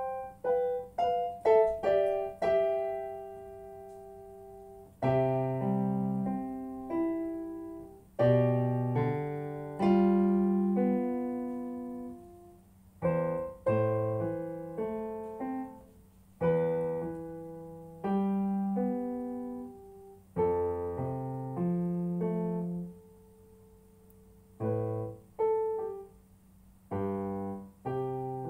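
Piano played in short phrases of single notes and chords, each struck note ringing and dying away, with brief stops between phrases, as in practising a piece.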